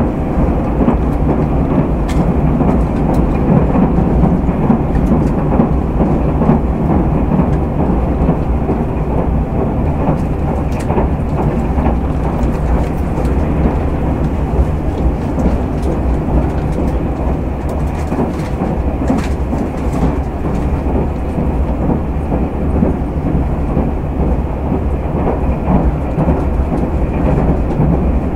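Steady running noise inside a Tobu 200 series limited express motor car (Moha 208-2): a continuous low rumble of wheels and bogies on the rails with a constant low hum and an occasional faint click.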